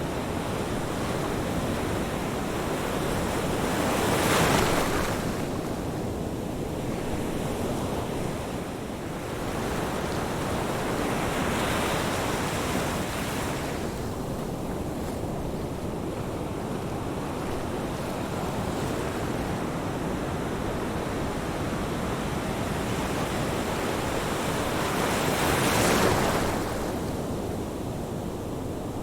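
Ocean surf: a continuous wash of waves with three larger waves breaking, about four seconds in, around twelve seconds and near the end, the last the loudest.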